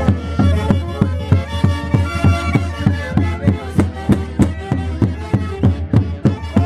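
Band playing Peruvian santiago music: held melody lines over a steady drumbeat of about three strokes a second.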